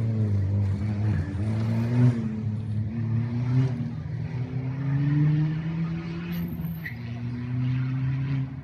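Rally car engine revving hard and climbing through several gear changes, the pitch rising and dropping back in steps, loudest about two seconds in.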